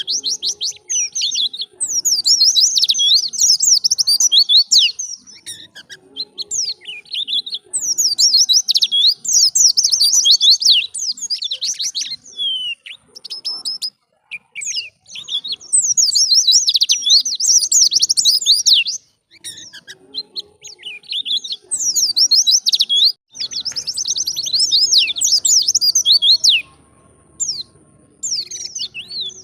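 White-eye (pleci) singing a rapid, high-pitched twittering song in bursts of a few seconds, with short pauses between them.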